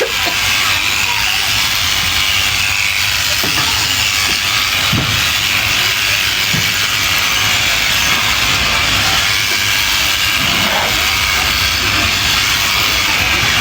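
Sheep shears running steadily while shearing a sheep, a constant even hiss with a low hum beneath.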